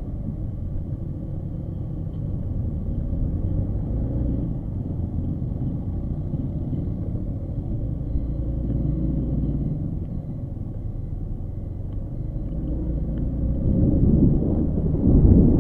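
Low, steady rumble of a running vehicle engine, swelling louder near the end.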